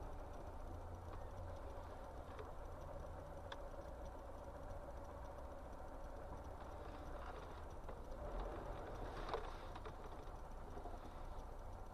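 Steady low rumble of a moving vehicle, with a few faint clicks and a slight swell in level about three-quarters of the way through.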